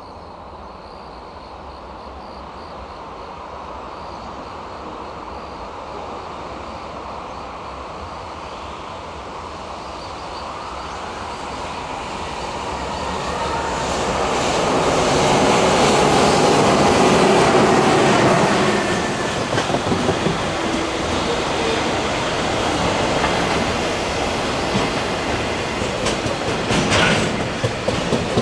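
JR Freight EH500 electric locomotive hauling a container freight train past: the rumble builds steadily as it approaches and is loudest as the locomotive goes by about halfway through. Then the container wagons roll past with an uneven clickety-clack of wheels over the rail joints.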